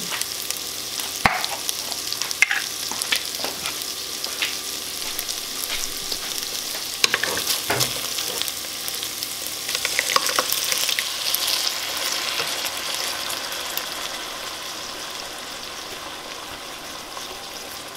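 Browned hot Italian sausage crumbles with onion and bell pepper sizzling in a pot, stirred with a spatula that scrapes and clicks against the pan now and then. The sizzle grows quieter toward the end.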